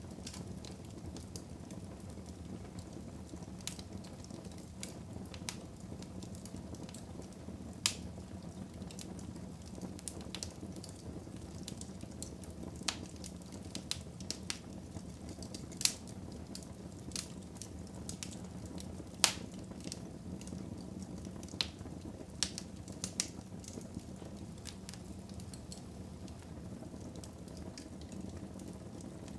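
Wood fire burning in a fireplace: a low steady rumble of flames with irregular sharp crackles and pops, the loudest ones about a third and two-thirds of the way through.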